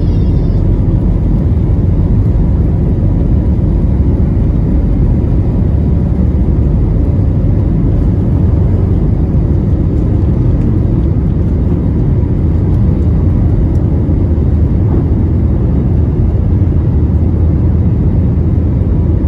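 Cabin noise of a JetBlue Airbus A321neo at high thrust, with its Pratt & Whitney geared turbofans heard from a window seat: a loud, steady rumble with a faint steady tone above it.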